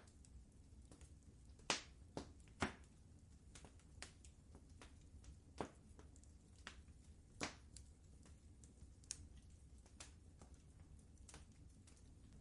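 Fireplace fire crackling softly, with irregular sharp pops and snaps over a steady low rumble. The loudest pops come near two seconds in and again past the middle.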